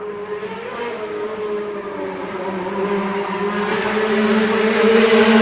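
Formula One car's engine approaching at a steady, high note, growing steadily louder.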